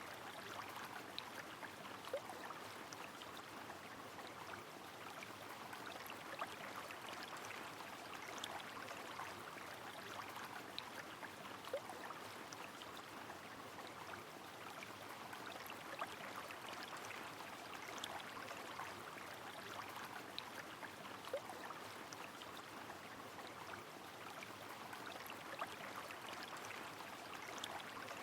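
Rain falling on a flowing river: a steady rush of water with scattered sharp drips and short plops.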